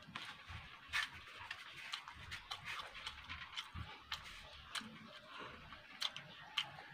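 A person chewing food close to a clip-on microphone, with irregular wet mouth clicks and smacks.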